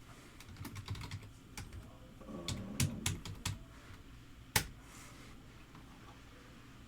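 Typing on a computer keyboard: irregular key clicks in a short run, then one sharper click a little over four seconds in.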